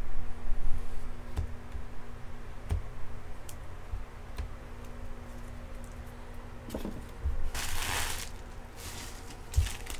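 Faint handling noises: a few light clicks and low thumps, and a brief rustle about eight seconds in.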